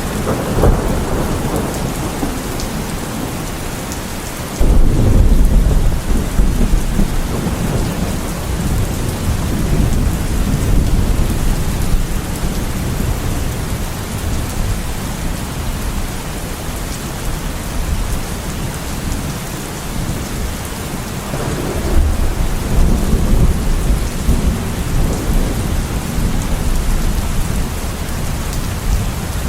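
Heavy rain falling steadily on a surface, with two low peals of thunder, one a few seconds in that breaks suddenly and rumbles away, and another around two-thirds through.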